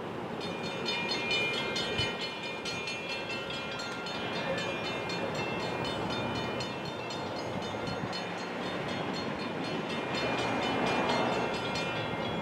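An approaching train heard before it comes into view: a steady rail rumble with high, ringing metallic tones that pulse at an even rhythm, getting a little louder near the end.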